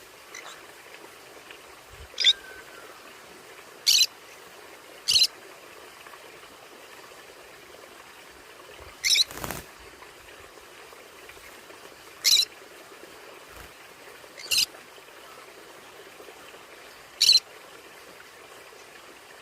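Conure (small parrot) giving short, sharp, high calls, seven in all, a second to a few seconds apart, over a steady faint hiss.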